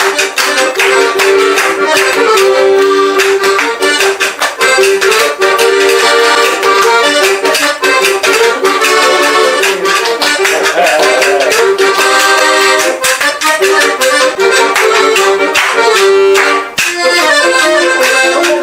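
Accordion playing a lively tune: sustained reedy chords with a quick, even rhythmic pulse.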